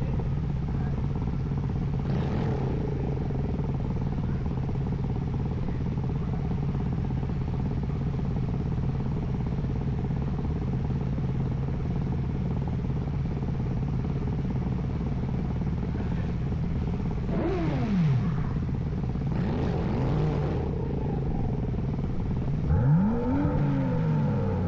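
BMW M235i's N55 turbocharged inline-six running steadily, then revved several times in the last third, the pitch sweeping up and falling back each time.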